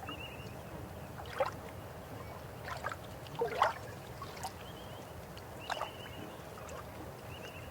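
River water flowing steadily, with gurgles and splashes four times; the loudest comes a little over three and a half seconds in.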